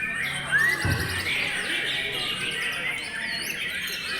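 Several white-rumped shamas singing at once in a contest, their loud whistled phrases, rising and falling glides and rapid trills overlapping one another. A short low thump comes about a second in.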